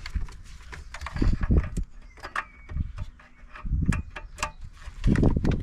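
Scattered plastic clicks and low knocks from work on a car dashboard and its wiring harness connectors, with three heavier groups of knocks about a second in, near four seconds and near the end.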